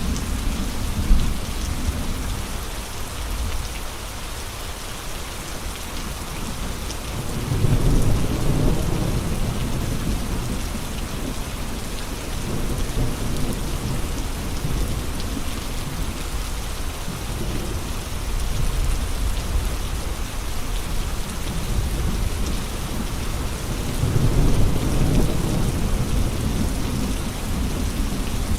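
Steady heavy rain with gusty wind, the rain hissing evenly throughout. Two deep low surges stand out, about eight seconds in and again near the end.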